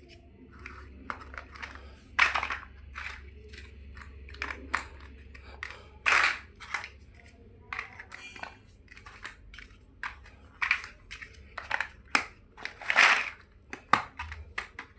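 Plastic building blocks being handled and pressed together: an irregular string of short clicks and rattles, with a few longer rustling bursts.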